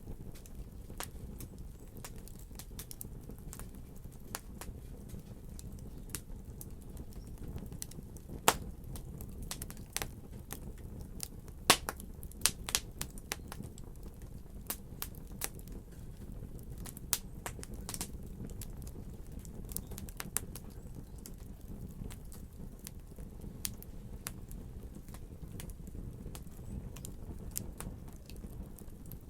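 Wood fire crackling over a low, steady rumble, with many scattered sharp pops and snaps; two louder pops stand out, about eight and twelve seconds in.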